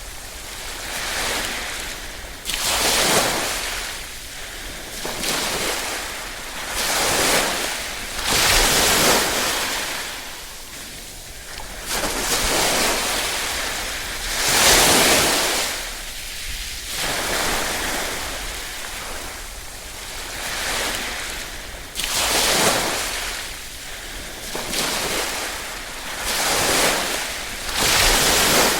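Small waves lapping and breaking on a shore, each one a brief rush of water that swells and fades every second or few, with stronger waves at intervals of several seconds.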